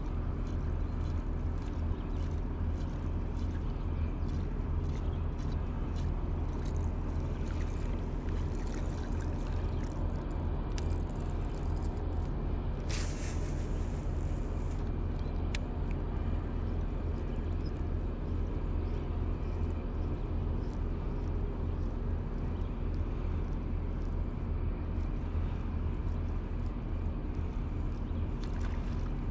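Boat's outboard motor running steadily at low speed, with a brief rushing hiss about halfway through.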